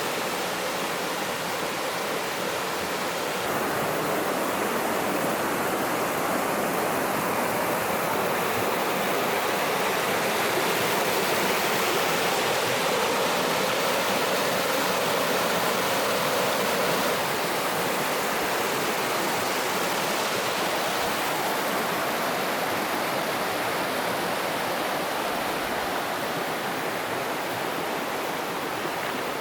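Mountain stream water rushing, a steady noise that swells slightly a few seconds in and eases a little past the middle.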